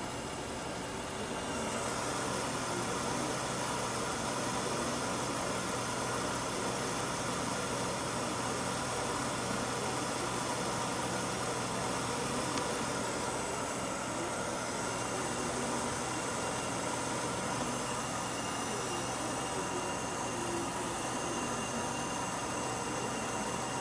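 Mercedes M103 inline-six engine idling steadily, heard as an even hum with a hiss over it.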